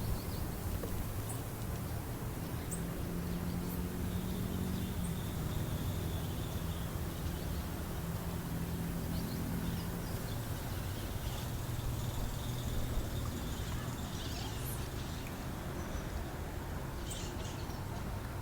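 Outdoor background noise: a steady low hum with faint high-pitched calls and scattered small clicks.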